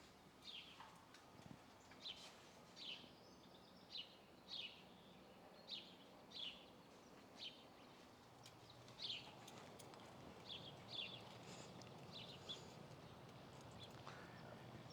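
Faint, short, high chirps from small birds, repeating irregularly about once a second.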